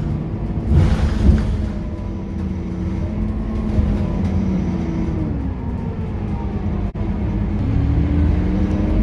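Scania K230UB bus's diesel engine and ZF automatic drivetrain running under way, with a short hiss of air about a second in. The engine note eases down about five seconds in, then climbs again near the end as the bus accelerates.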